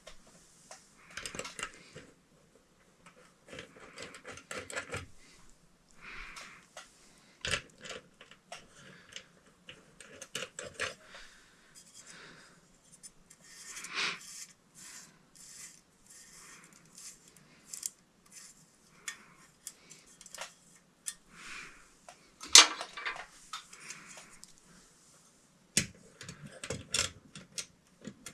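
Metal ceiling fan hardware being handled: scattered light clinks, clicks and rustles, irregular with short pauses, and one sharper knock about two-thirds of the way through.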